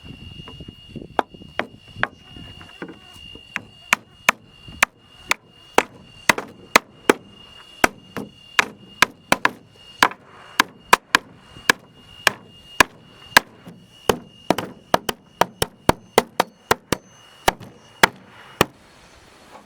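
A hammer repeatedly striking wooden planks, about two to three sharp blows a second in uneven runs. The blows stop a second before the end.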